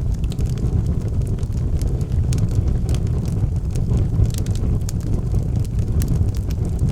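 Wood fire burning in a fireplace: a steady low rumble from the flames, with sharp crackles and pops from the burning logs scattered irregularly throughout.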